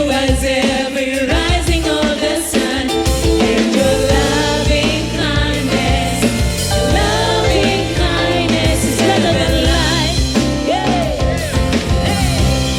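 Gospel worship song playing: a singer's voice sliding through wordless runs over a band with bass and drums.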